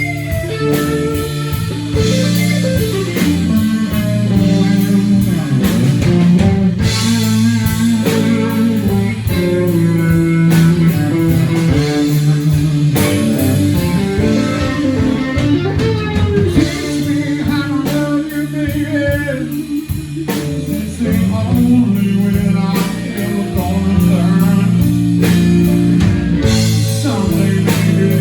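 Live blues-rock band playing a guitar-led passage with no vocals: electric guitar over bass and a drum kit keeping a steady beat.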